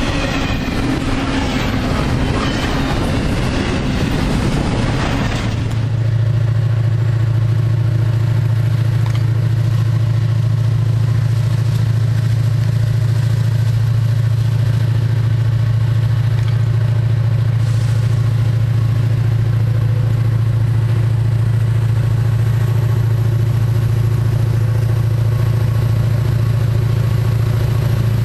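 Double-stack container train cars rolling past close by with wheel and rail clatter. About five seconds in this cuts off abruptly to the steady low drone of an approaching CSX diesel locomotive's engine.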